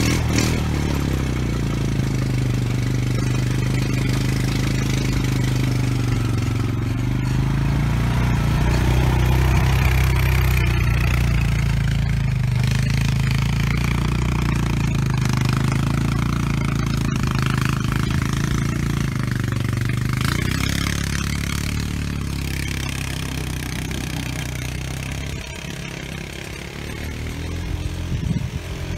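Four-wheeler ATV engine running steadily under load as it pulls a land planer, easing off a little near the end.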